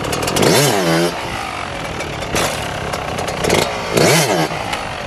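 Dirt bike engine revving up and back down twice, about half a second in and again about four seconds in, as the front wheel is popped up for a wheelie and brought back down with the rear brake.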